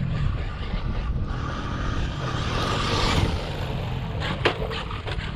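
Traxxas RC monster truck driving over rough ground: electric motor whine swelling and easing over the rustle of tyres on dirt, with a few sharp knocks near the end.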